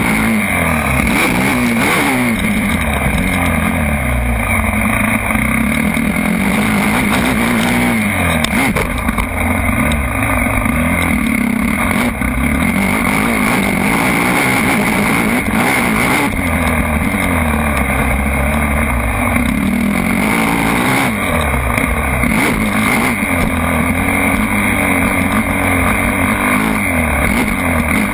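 Motocross bike engines revving, the pitch climbing and dropping again and again with throttle and gear changes.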